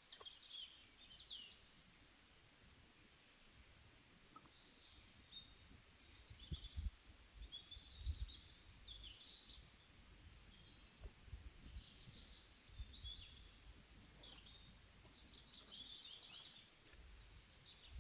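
Small songbirds calling: many short, high chirps and trills scattered throughout, faint over a quiet background, with a few soft low thuds in the middle.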